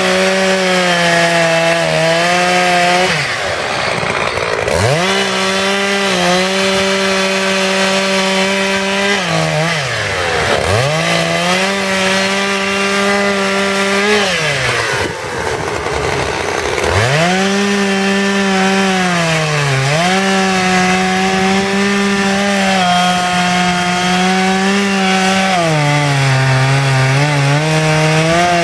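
Petrol two-stroke chainsaw cutting wood, held at high revs and several times dropping back toward idle between cuts before revving up again. Near the end the engine speed sags for a couple of seconds under load.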